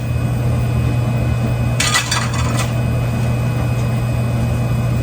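Bacon tipped into a hot frying pan: a short clatter and hiss about two seconds in, over a steady low hum.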